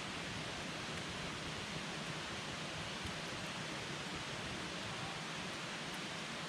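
Wood campfire burning: a steady hiss with a few faint crackles.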